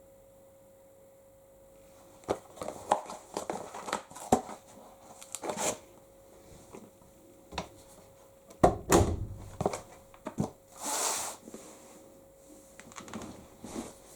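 Shirts being loaded into a tumble dryer drum: fabric rustling and handling clatter in irregular bursts, with a heavy thump about nine seconds in and a brief swish a couple of seconds later, over a faint steady hum.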